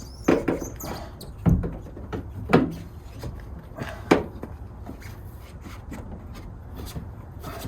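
A few sharp knocks and bumps, four in the first four seconds, then only low handling noise, as a framed glass window is pushed into the cut-out opening of a van's sliding door.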